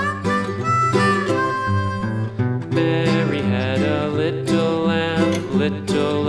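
Background music: a country-style instrumental with harmonica, changing to acoustic guitar picking about halfway through.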